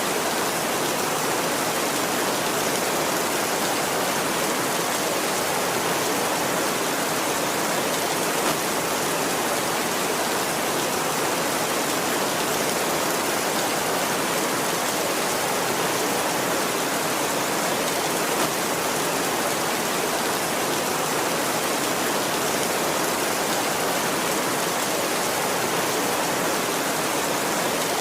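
Heavy rain pelting a tin roof, a steady dense hiss that stays even throughout.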